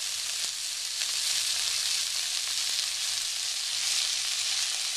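Blanched broccoli and garlic sizzling steadily in hot olive oil in a wok.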